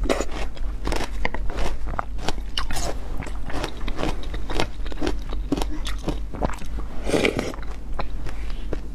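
Close-miked eating sounds: chewing and crunching with many wet mouth clicks, as spoonfuls of a creamy pink dessert topped with granola and fruit are eaten.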